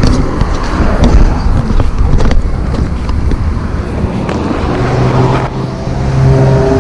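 Rumbling vehicle noise with a few sharp knocks. About five seconds in, a steady low engine drone sets in.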